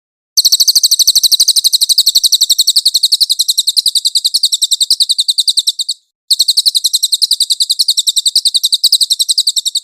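Cililin songbird recording: a fast, even trill of high-pitched chirps, about ten notes a second, breaking off briefly around the middle before a second trill. It is a clean masteran recording played to tutor other songbirds.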